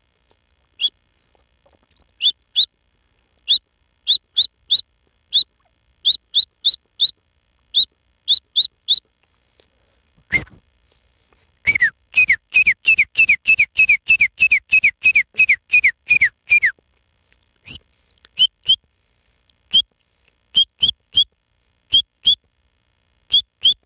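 A man whistling an imitation of a partridge (teetar) chick's call: short high chirps in scattered runs, then a quick string of about fifteen falling whistles lasting some five seconds, then more short chirps. A single click sounds about ten seconds in.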